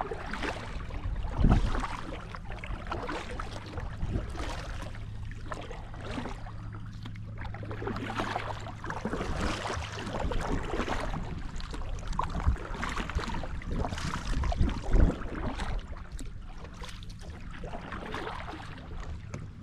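Water sloshing and splashing around a kayak's hull, an irregular run of swishes over a steady low rumble, with a couple of sharper knocks against the boat, one about a second and a half in and one near the end.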